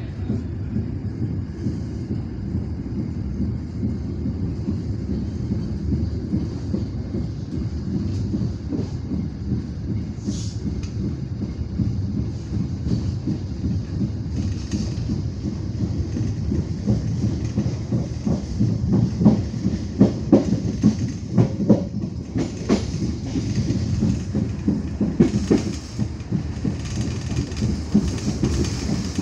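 Walahar Ekspres local passenger train rolling, heard from inside a carriage: a steady low rumble of wheels on rail, joined in the second half by a run of sharp wheel clacks over the track.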